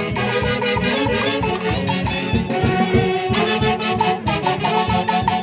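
Live band music in the Andean orquesta típica style, with reed and wind instruments carrying a melody over a steady, quick beat.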